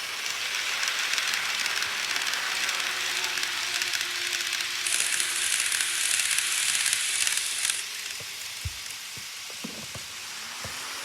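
Model trains running on the layout's track: a steady hissing rolling noise with a faint motor whine. It is louder for the first seven or eight seconds, then drops to a quieter hiss with a few light clicks.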